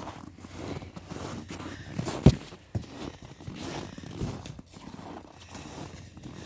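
Scuffling footsteps and knocks of a soccer game with a dog, with one sharp, loud thud of the ball a little over two seconds in.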